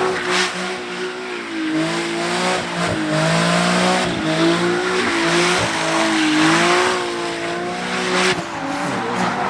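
Car engine revving with tyres squealing as a car drifts, the engine note and screech wavering up and down throughout.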